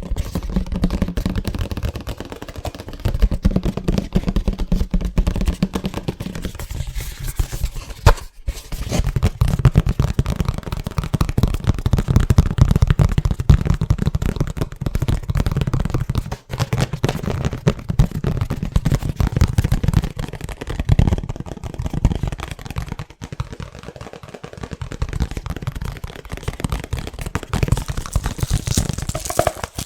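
Fast, aggressive fingertip tapping on a hard object: a dense, continuous stream of quick taps and knocks, with one sharp, loud hit about eight seconds in.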